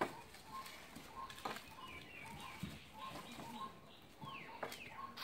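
A small bird chirping over and over, a short note about every half second, with a few falling whistled notes about four seconds in; a few sharp taps are heard now and then.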